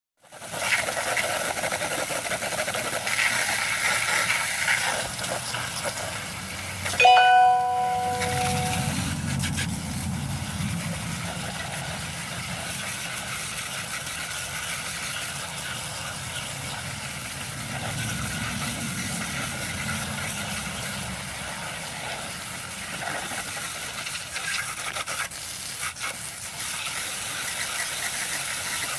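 Garden hose spraying water onto a box fan, a steady hiss of water jet and splatter. About a quarter of the way in, a brief pitched tone sounds.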